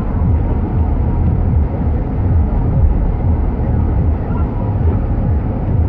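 Steady low rumble of a car driving through a snowstorm, heard from inside the cabin: engine and road noise.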